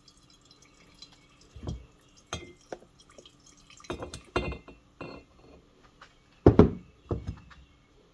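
Gasoline poured from a push mower's fuel tank into a glass container in irregular glugs and splashes, the loudest near the end, drained to check the fuel for water or other contaminants.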